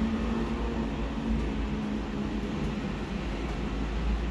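CPTM electric commuter train running past, a steady low rumble with a faint steady hum.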